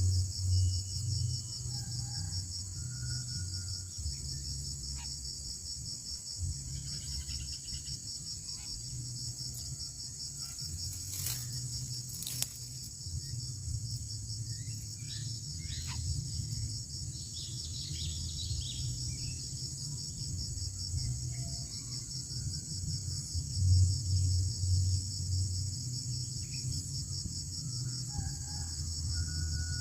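Steady high insect chorus, a continuous fine trilling, over a low rumble. A few faint short chirps come and go, and two sharp clicks sound about eleven and twelve seconds in.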